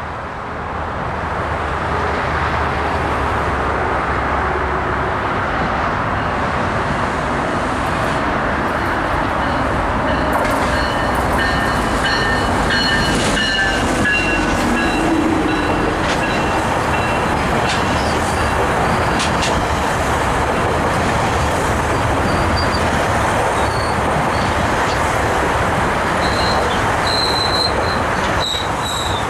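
GO Transit diesel-hauled bilevel commuter train running through the station with a steady, loud rumble and rail noise. From about ten seconds in, high-pitched wheel squeals come and go, with a few sharp clicks from the wheels over the track.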